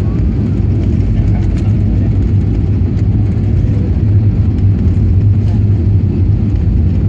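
Airplane landing: a loud, steady low rumble that holds even in level and pitch throughout.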